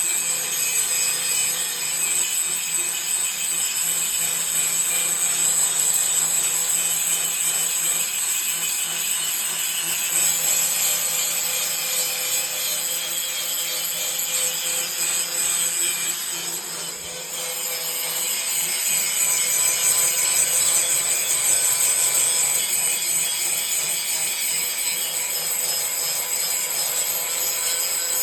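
Angle grinder with an abrasive grinding wheel grinding thick arc-weld lumps off a steel sheet: a continuous high-pitched grinding that eases briefly a little past the middle as the wheel lifts off, then bears in again.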